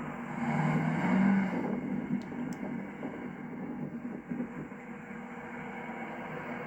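2011 Chevrolet Camaro SS's 6.2-litre V8 briefly pulling harder, its note rising and louder over the first couple of seconds, then easing back to a steady drone while the car drives on.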